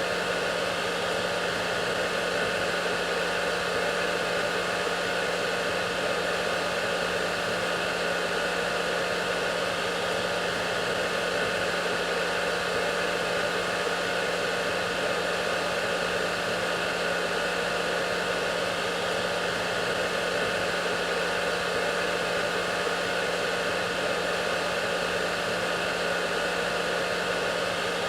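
Hair dryer running continuously: a steady rushing blow with a low motor hum and faint higher whine, unchanging in level.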